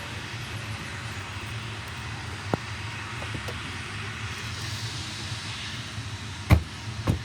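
Steady rumble of distant aircraft jet engines, with a short click about two and a half seconds in and two louder knocks near the end.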